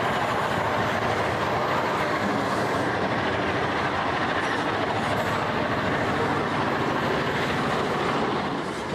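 Heavy freight train running past, hauled by EMD GM and ALF class diesel locomotives: a loud, steady mechanical rumble that eases slightly near the end.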